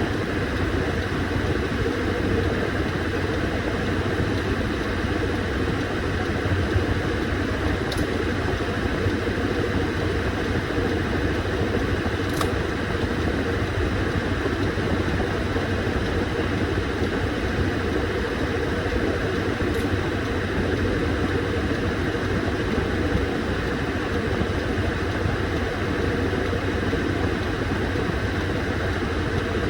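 Washing machine running: a steady motor hum with an even wash of noise that doesn't pause or change.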